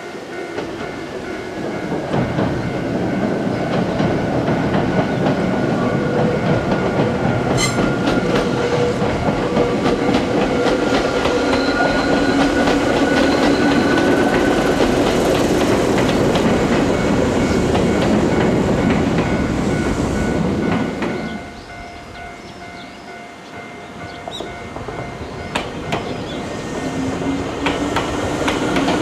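An electric train passing close by, its wheels clattering over the rail joints under a faint steady whine. The noise builds for about two seconds, holds, then drops off sharply about two-thirds of the way through as the train goes past. Near the end another train sound swells again with a rising whine.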